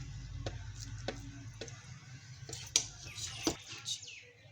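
A serving spoon clinking and scraping against a cooking pot and plate as cooked biryani rice is dished out: a string of uneven light knocks. A low steady hum underneath stops about three and a half seconds in.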